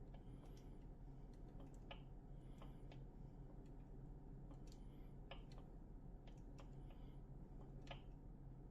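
Near silence: faint room tone with a steady low hum and a scattering of faint ticks.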